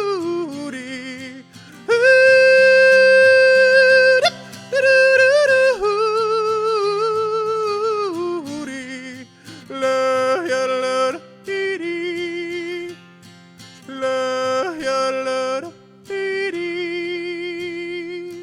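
A singer yodeling over strummed acoustic guitar in a country song. Long held notes with vibrato break into sudden leaps up and down in pitch, and the last note dies away at the end.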